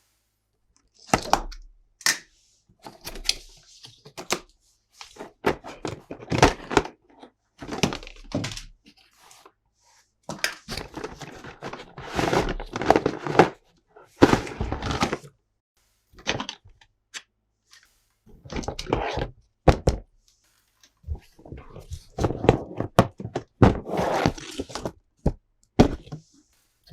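Plastic toys and their packaging being handled: irregular clacks, knocks and short rustling bursts, starting and stopping in quick clusters.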